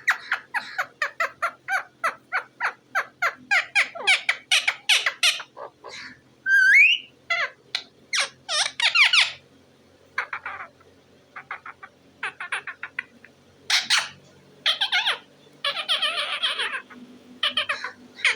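Pet parrot calling: a rapid run of short, sharp calls, about four a second, for the first six seconds, then a rising whistle and scattered bursts of calls.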